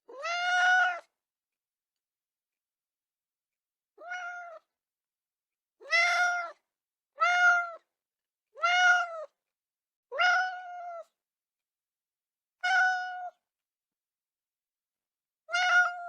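A cat meowing, eight separate high-pitched meows of about half a second to a second each, with complete silence between them.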